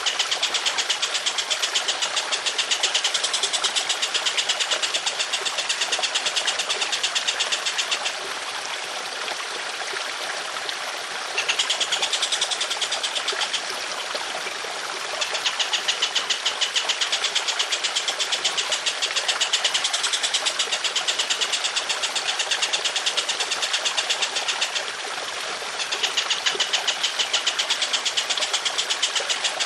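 A songbird giving long, harsh, rapid-fire rattling trills, each stretch lasting several seconds, over a steady trickle of running water. The rattle stops for about three seconds after some eight seconds, and again briefly near the end.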